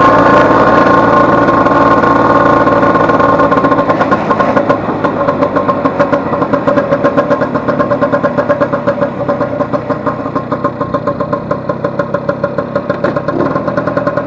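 Vespa 150 scooter's two-stroke single-cylinder engine running under way, steady at higher revs at first, then easing off about four seconds in to a slower, pulsing beat.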